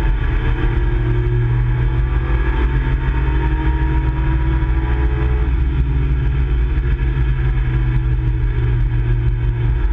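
Nissan Skyline GT-R (KPGC10) S20 straight-six running hard under load on track, heard from inside the car's cabin, holding a fairly steady note that changes just at the end.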